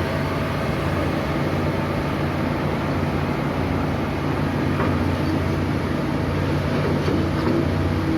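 Heavy diesel engine running steadily at an even pitch, a low drone with mechanical clatter over it.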